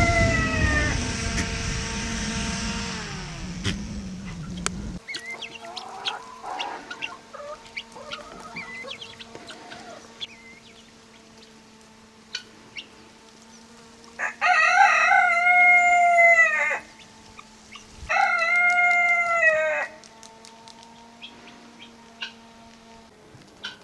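Rooster crowing: one crow fading at the start, then two loud crows about 14 and 18 seconds in, with softer clucking calls between. A low rumble stops suddenly about 5 seconds in, and a faint steady hum runs under the rest.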